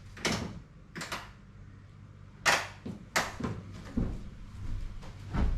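A series of about six sharp clicks and knocks, irregularly spaced, over a low steady hum.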